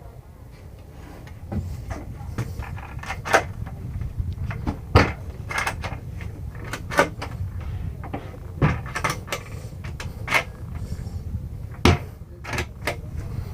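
Cabinet doors and latches in a camper interior being opened and closed: a string of sharp clicks and knocks, irregularly spaced, over a steady low rumble.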